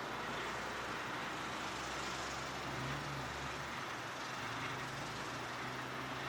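Brill 60 railcar's engine running steadily, a low hum under a constant rushing noise, the hum shifting a little in pitch a few seconds in.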